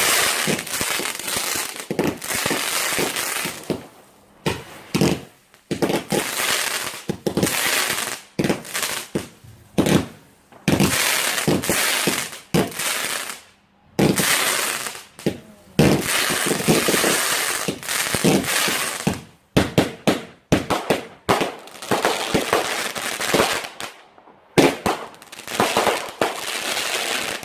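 A multi-shot consumer firework cake firing a long barrage: loud bursts of crackling and hissing with sharp bangs, broken by short gaps of a second or less.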